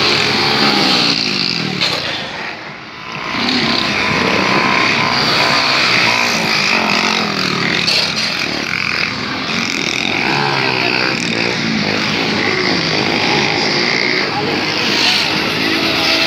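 Small motorcycle engines revving up and down, several at once, in repeated rising and falling pitches. The level drops briefly about two and a half seconds in, then picks up again.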